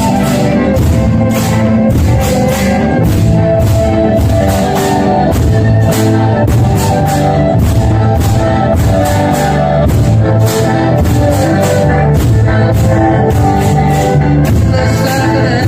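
Pastellessa music from a bottari group beating barrels, vats and sickles in a fast, steady beat, with a pitched melody carried over the percussion.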